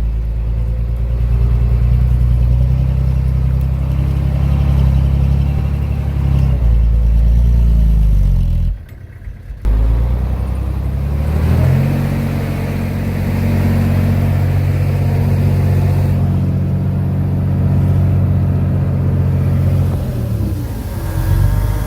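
Heavy-equipment diesel engine running loud and low. Its pitch drops about eight seconds in, cuts out briefly about nine seconds in, revs back up, holds steady, and eases off near the end.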